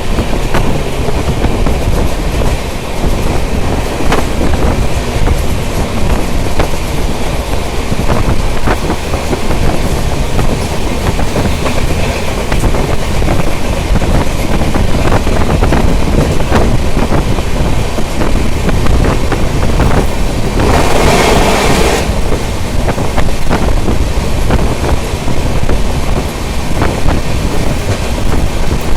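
Mumbai suburban local train running, heard from on board: a steady heavy rumble with the clicks of wheels over rail joints, and a brief louder rush of noise about 21 seconds in.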